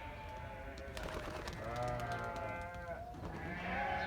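Sheep bleating: a short faint bleat near the start, then two long bleats in the second half, the last still going at the end.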